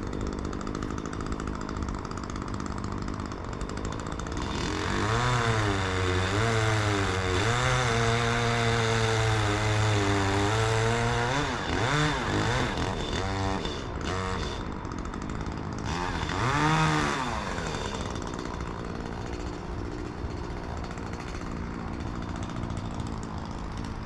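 Chainsaw running with its engine pitch rising and falling as it cuts, loudest from about four seconds in to about twelve, then dropping back, with one more brief rev near the end.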